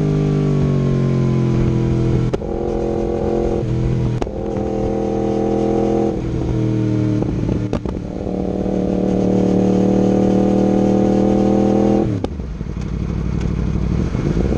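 2019 Yamaha R1's crossplane inline-four running through an Akrapovic exhaust with link pipe while ridden. The revs sag and then jump back up through several gear changes, each marked by a short click. They hold steady for a few seconds, then drop sharply near the end.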